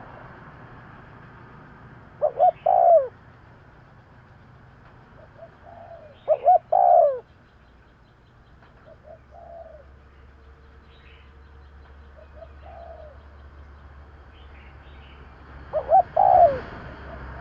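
Spotted dove cooing: three loud phrases about four seconds apart, each two short notes followed by a longer, falling coo. Fainter coos come in between, with faint chirps of small birds.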